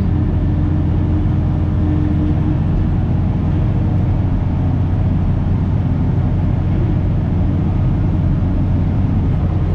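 Komatsu D65 bulldozer's diesel engine running steadily, a loud, even low drone while it pulls a stuck skid loader on a chain.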